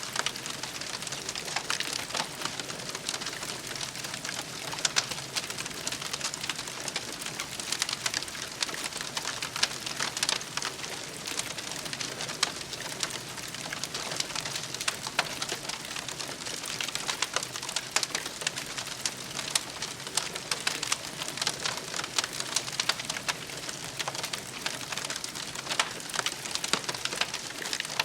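Campfire burning: a steady hiss thick with many small, sharp crackles and occasional louder snaps.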